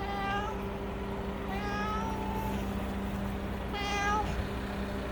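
A cat meowing three times, the middle call the longest, over a steady low hum.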